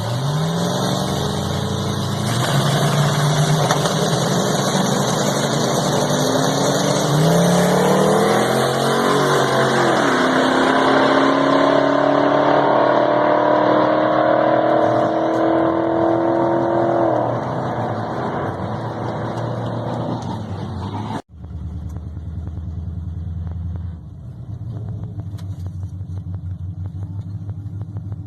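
Squarebody Chevy drag truck's engine accelerating hard, its pitch climbing through the gears with a drop at a shift about ten seconds in. About twenty-one seconds in, the sound cuts abruptly to the engine running at a steadier, low rumble.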